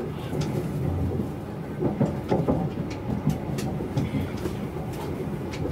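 Chinese high-speed train heard from inside the carriage while pulling into a station: a steady low rumble with scattered sharp clicks from the running gear.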